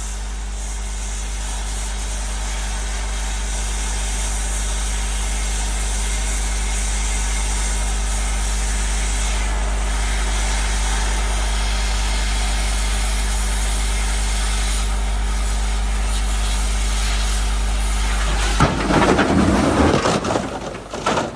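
A cutting torch hissing over a steadily running engine, growing slowly louder. About 18 seconds in comes a sudden loud metallic crash and clatter lasting a couple of seconds as the cut part of the dump-truck bed breaks free and swings.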